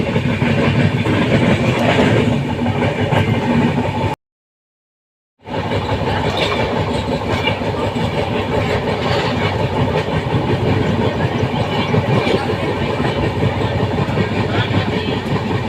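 Train running along the rails: a steady rumble with some wheel clatter. The sound cuts out completely for about a second roughly a quarter of the way in, then carries on unchanged.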